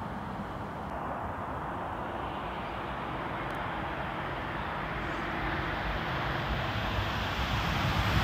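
Eurostar high-speed train approaching, its noise building steadily and growing louder near the end.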